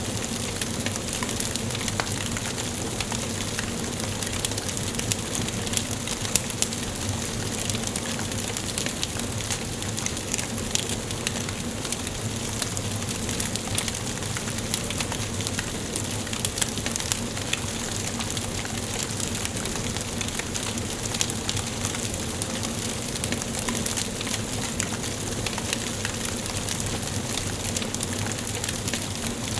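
Wood fire burning in a fireplace: frequent small crackles and pops over a steady hiss.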